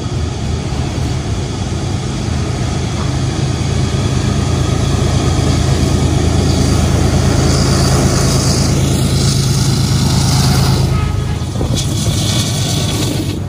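A train passing close by: a steady diesel engine drone under the noise of rolling wheels. It builds to a peak in the middle, then drops away sharply near the end.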